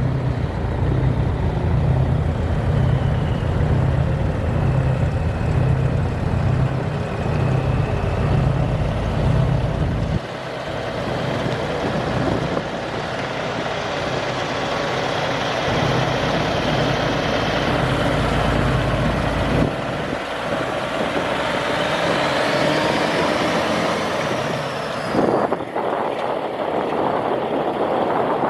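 Big diesel truck engine running with a heavy, pulsing low throb that drops away about ten seconds in, leaving lighter truck running noise. Near the end there is a brief sharp burst.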